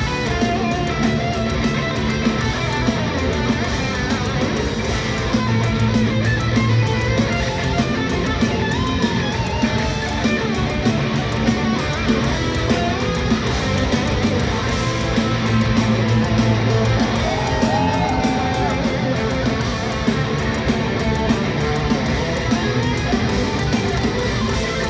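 Live heavy metal band playing: distorted electric guitars with a lead guitar line bending in pitch, over bass and drums.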